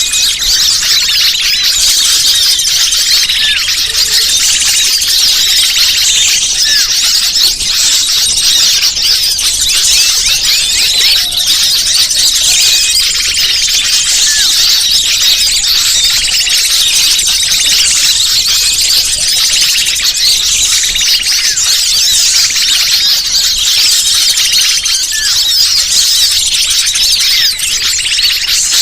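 Dense, unbroken high-pitched chatter of many small birds calling over one another: a bird-lure (pikat) recording played to draw wild birds in.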